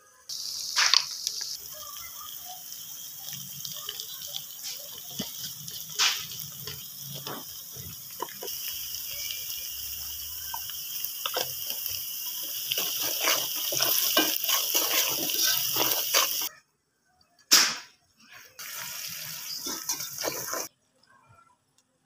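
Onion and tomato masala sizzling in an aluminium pot on a gas stove, with a steel ladle stirring and clicking against the pot. The sound cuts out briefly a few times near the end.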